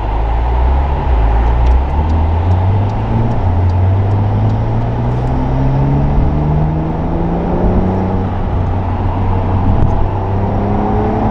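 Porsche 911's flat-six engine, heard from inside the cabin, accelerating. Its pitch climbs steadily for several seconds, falls at an upshift about eight seconds in, then climbs again, over steady road and tyre noise.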